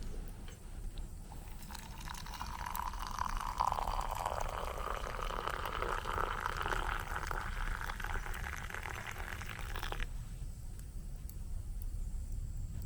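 Water being poured into a vessel, the pitch of the pour rising steadily as the vessel fills, then stopping suddenly.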